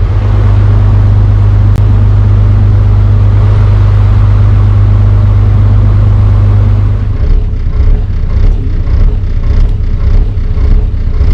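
A boat's inboard engine running steadily under way, a strong low hum. About seven seconds in the hum turns uneven, with gusts of noise across it.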